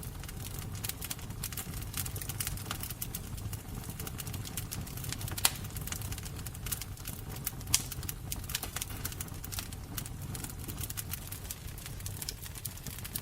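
Fire crackling: a steady low rumble under a dense run of small snaps, with two louder pops, one a little before the middle and one just after it.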